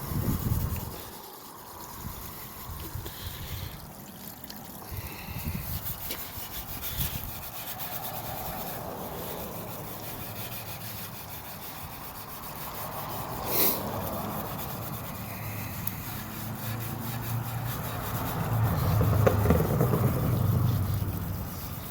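Abrasive pad scrubbing by hand over the truck's painted and rusty sheet-metal body, in uneven strokes, growing louder near the end, with one sharp click about two-thirds of the way through.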